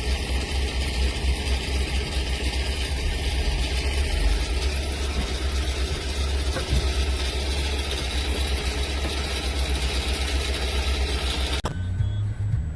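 Vehicle engine running with a steady low drone under road and cabin noise. It cuts off suddenly near the end to a quieter hum.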